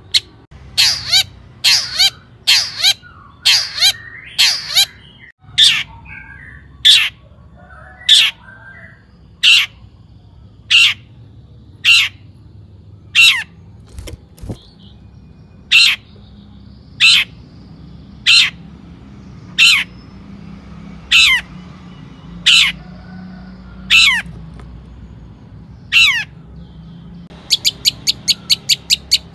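Long-tailed shrike (cendet) calling: harsh, sharp notes that sweep downward, repeated about once a second. The notes come faster at the start, and a rapid run of short notes begins near the end.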